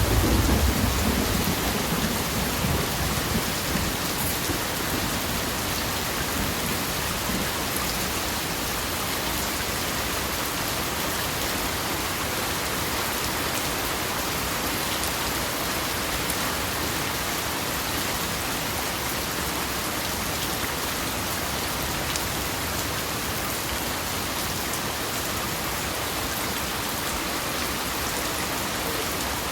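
Steady, heavy rain falling and pattering on surfaces, an even hiss. A low rumble of thunder dies away over the first few seconds.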